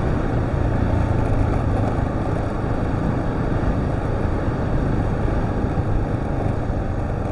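Husqvarna TR650's single-cylinder engine running at a steady pace as the motorcycle rides along a dirt track, with a dense steady rush of wind and track noise.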